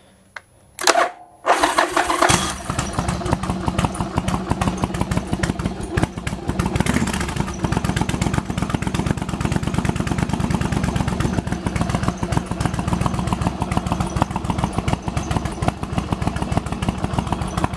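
Yamaha Virago XV1100's V-twin engine turned over briefly on the electric starter, catching about two seconds in and then idling steadily with an even pulsing beat.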